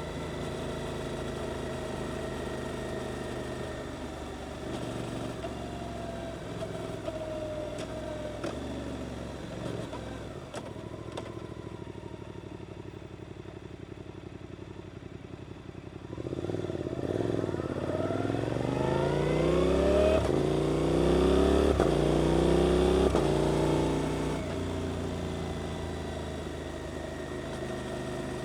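Suzuki GSX-8S parallel-twin engine through an Arrow aftermarket exhaust, running on a steady throttle. About two-thirds of the way through it accelerates hard, the revs climbing in several rising steps through the gears and getting louder, then it settles back to a steady cruise.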